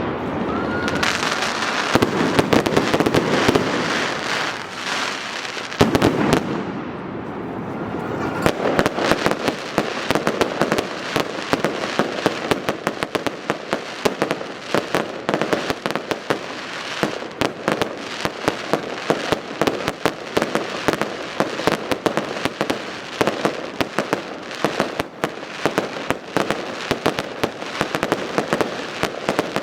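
Fireworks display: loud bursts with a couple of short whistles in the first several seconds, then a dense, continuous crackle of many rapid small pops.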